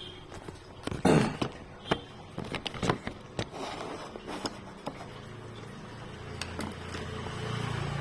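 Clicks, taps and rustles of handling a multimeter and its test leads over an air-conditioner circuit board, the loudest knock about a second in. A low hum swells near the end.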